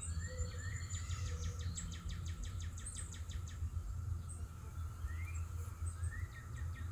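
Birds chirping in the background: short rising notes every second or so, and a fast rattling trill for about two and a half seconds starting about a second in, over a steady low rumble.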